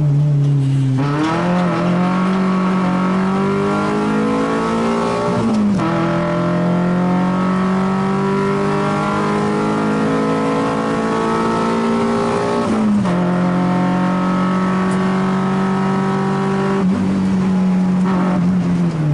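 Race car engine at full throttle, heard inside the cabin, revs held high and climbing slowly, broken by quick gear changes at several points.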